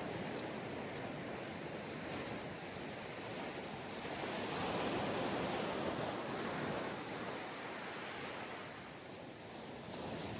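Sea waves washing onto a sandy beach, a steady hiss of surf that swells about four seconds in and eases off near the end.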